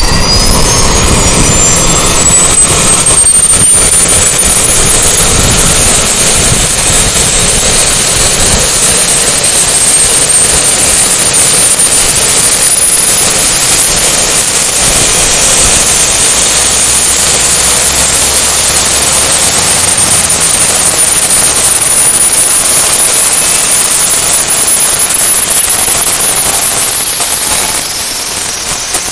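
AgustaWestland AW109E Power helicopter's twin turbine engines running loud, with a high turbine whine rising slowly in pitch as they spool up, then holding steady near the end, over a continuous roar.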